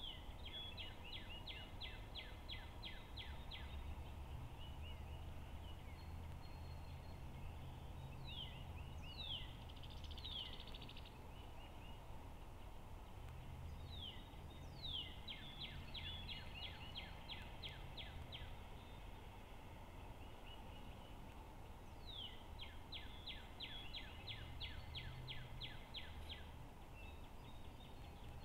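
A songbird singing outdoors: a rapid, even trill of about three seconds, given three times, with quick downward-slurred notes in between. Underneath is a steady low rumble.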